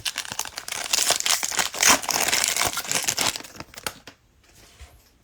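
A trading-card cello pack's plastic wrapper crinkling and tearing open, dense crackling for about four seconds that then stops.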